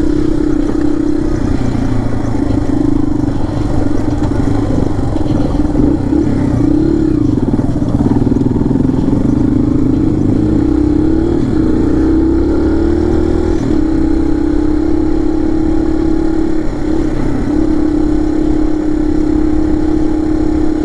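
Small dirt bike's single-cylinder engine running steadily as the bike rides along a trail. Its pitch wavers with the throttle, dipping and then climbing about halfway through before holding even again, over a rough rumble of the ride.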